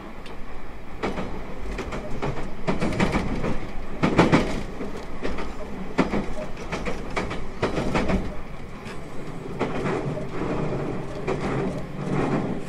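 Onboard running sound of a JR 813 series 200 subseries electric train heard from inside the car: a steady rumble of the wheels, with sharp knocks at irregular intervals as they cross rail joints.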